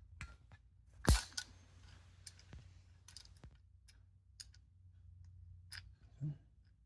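Small clicks and taps of a die-cast metal toy car being handled while a small plastic headlight insert is pushed out of it, with one sharper knock about a second in.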